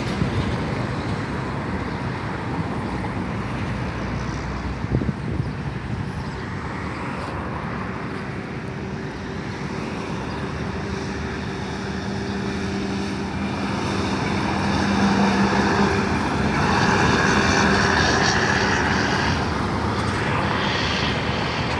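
Scania truck's diesel engine running continuously, with a steady low drone that grows louder from about fourteen seconds in.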